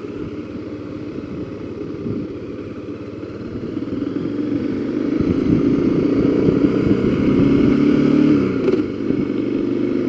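Motorcycle engine pulling away and accelerating: its pitch and loudness climb from about four seconds in, then fall away briefly near the end.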